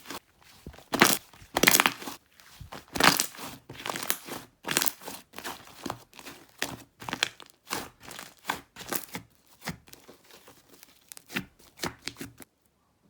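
Slime being squished and stretched by hand, giving irregular crinkly, crackling squishes one or two a second, which stop shortly before the end.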